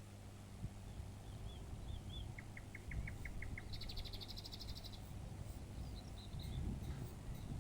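Small birds calling: a few short rising-falling calls, then a quick run of about eight sharp notes and a fast high trill, followed by scattered chirps. A low steady hum runs underneath.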